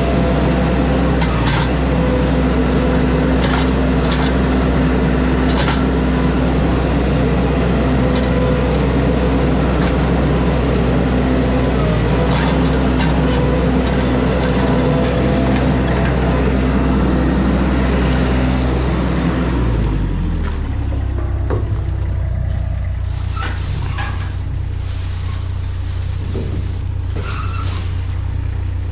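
An engine on the job-site equipment running steadily, then settling to a lower, quieter note about twenty seconds in, with scattered clicks and knocks over it.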